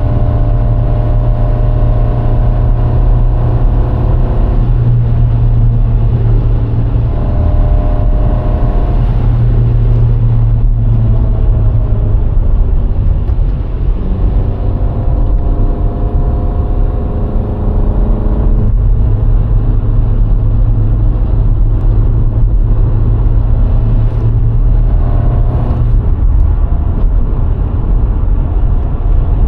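Road noise from a VW Golf IV 1.6 while driving: a heavy low rumble of tyres and road with the four-cylinder petrol engine running under it. The engine's pitch rises and falls several times as the revs change.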